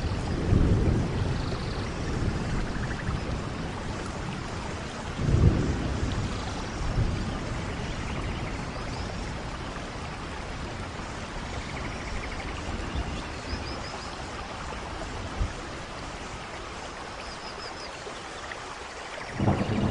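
Steady rain with rolls of thunder: a low rumble at the start, a stronger clap of thunder about five and a half seconds in, a smaller one shortly after, and another rumble building near the end.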